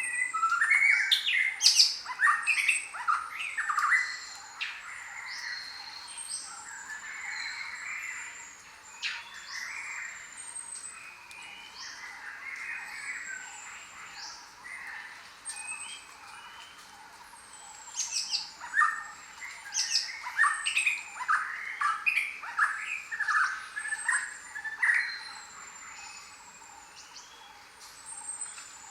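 Several jungle birds calling at once. Short high descending whistles repeat about once a second throughout, over bursts of louder chattering and squawking calls near the start and again past the middle.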